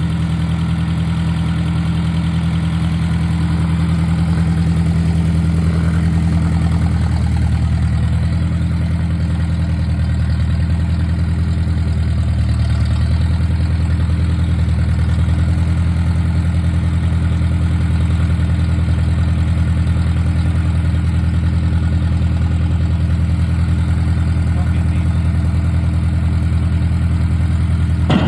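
1953 Ford Jubilee tractor's four-cylinder gasoline engine running steadily, its pitch shifting slightly about seven seconds in, with a short click near the end.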